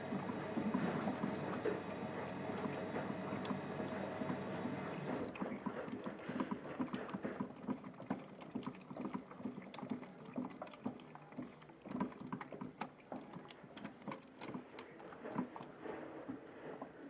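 Modified Miele toy washing machine during its drain and spin cycle: its small motor hums steadily, then cuts off about five seconds in, leaving irregular light knocks and clatters from the machine.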